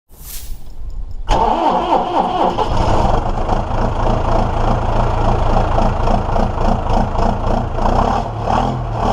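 Ferguson TEF20 tractor's four-cylinder diesel engine being started: a brief crank, then it catches about a second in, its revs wavering before it settles into a steady run.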